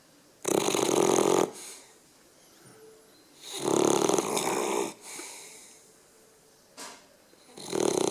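A sleeping beagle snoring loudly: three snores about three and a half seconds apart, each lasting about a second, with a short, softer breath after each.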